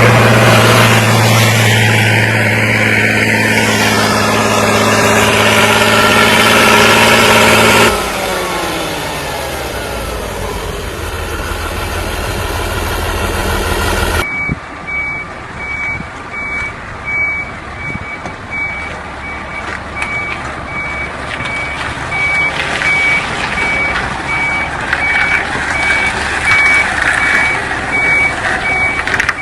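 A vehicle engine running loudly and steadily, then dropping in pitch as it winds down. After an abrupt cut, a truck's reversing alarm beeps at a steady, even pace over the low noise of the vehicle.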